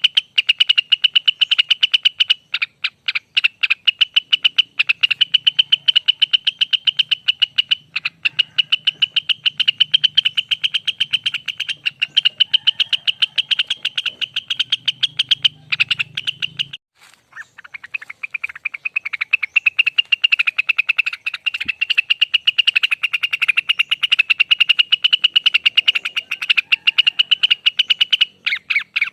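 A cucak wilis (Rengganis) songbird sings its long 'ropel' song: a rapid trill of quick repeated notes at a steady pitch that runs on and on, broken once by a brief pause about two-thirds of the way through.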